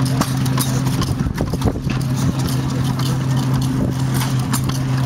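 A 1912 United Type F 1½ hp hit-and-miss stationary engine running a Tangye water pump: irregular clacking knocks over a steady low hum.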